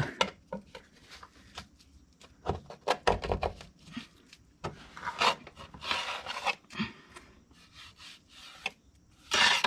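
Deck scraper scraping caked wet grass clippings off the underside of a Craftsman T240 riding mower's steel deck, in uneven spells of rasping strokes with little clicks and short pauses between them.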